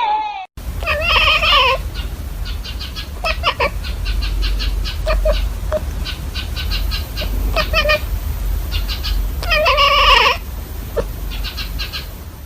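A cat meowing two long, wavering meows, one near the start and one near the end. Between them comes a run of short, quick chirping sounds, over a steady low rumble.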